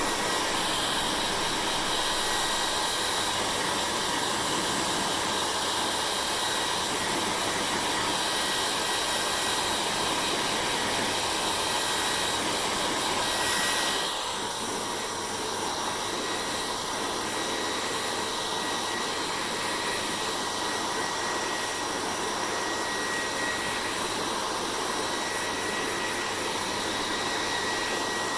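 Hair dryer running steadily: a continuous blowing hiss with a faint whine. About halfway through, the sound drops slightly and its tone shifts.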